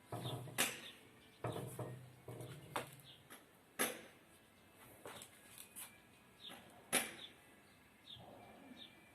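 Hard plastic parts of a blender being handled and worked on: irregular clicks and knocks with short scraping and rubbing between them. The sharpest clicks come about half a second in, near the middle and about two-thirds of the way through.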